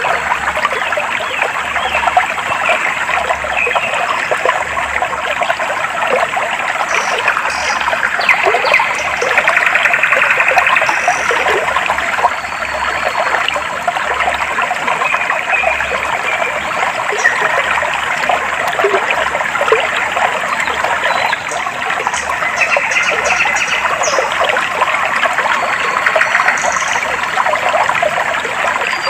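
Clear, shallow stream water trickling and babbling steadily over rocks, with short, high bird chirps here and there.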